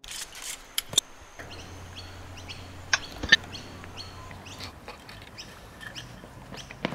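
Birds chirping in short, repeated high calls, with a few sharp knocks and a low steady hum that comes in about a second and a half in.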